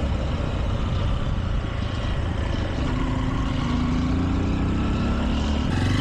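Honda XR150L's single-cylinder four-stroke engine running while the motorcycle is ridden, its note rising in pitch about halfway through as it picks up speed.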